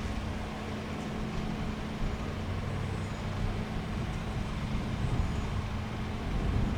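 Jet airliner engines at an airport, a steady low rumble with a constant hum.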